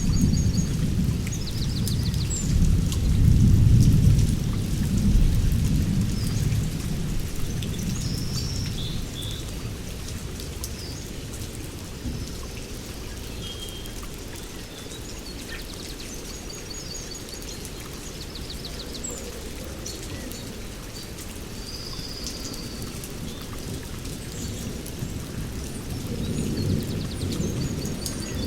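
Heavy rain falling steadily, with a long roll of thunder rumbling in the first several seconds, loudest about four seconds in, then fading. A second, softer rumble comes near the end.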